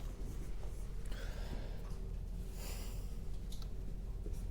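Room tone with a low steady hum and two soft breaths, one about a second in and one near the middle.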